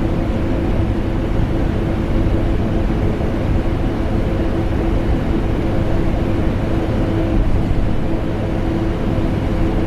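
Vacuum cleaner motor and air conditioner running together: a steady, unchanging drone with a constant hum in it.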